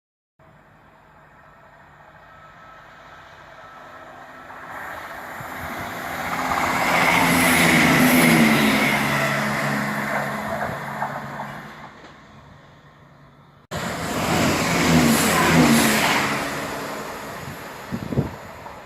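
A diesel train passing on the railway line. It builds up, is loudest about eight seconds in, and then fades, with its pitch dropping as it goes by. After an abrupt cut, a second train is heard passing close by.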